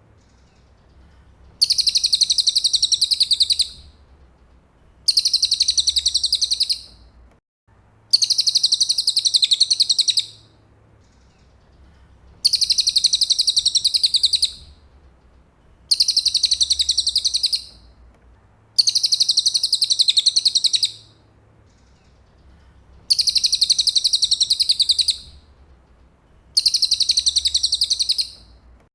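Cililin songbird singing a fast, high-pitched chattering trill in phrases about two seconds long, eight times, with short pauses between. This is the kind of song used as 'isian' tutor material for a murai.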